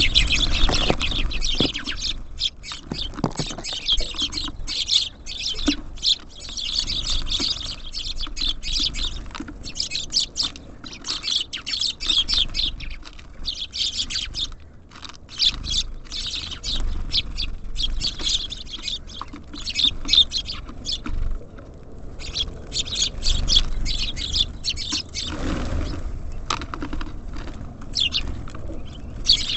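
Small songbirds at a feeder chirping in quick, dense runs of short calls. There is a brief lull about halfway through and another about three-quarters of the way through.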